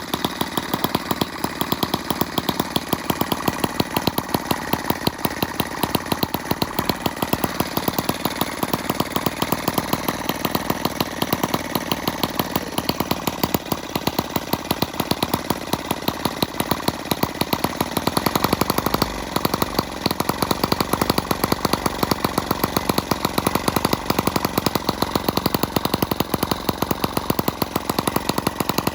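Miniature model engine running steadily, firing in a fast, even stream of sharp pulses. A deeper low end comes in about two-thirds of the way through, with no break in the running.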